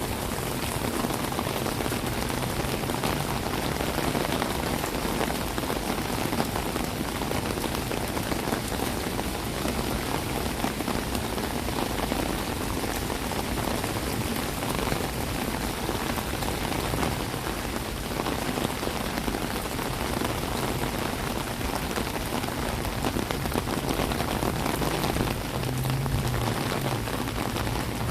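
Steady heavy rain falling and splashing on hard surfaces, an even hiss, with a faint low hum rising briefly near the end.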